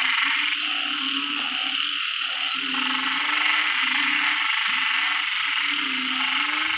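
Loud chorus of frogs calling after heavy rain: low calls repeat every second or so over a dense, steady, high-pitched din of many more callers.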